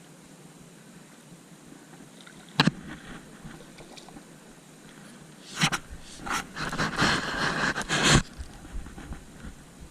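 Knocks and scraping on a jon boat: one sharp knock, then a few seconds of rapid knocking and scraping about halfway through.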